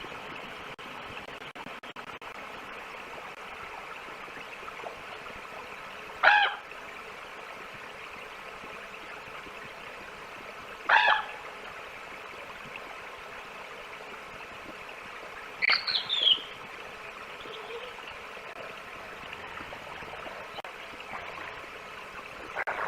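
A bird gives four short, harsh calls, several seconds apart, over a steady hiss.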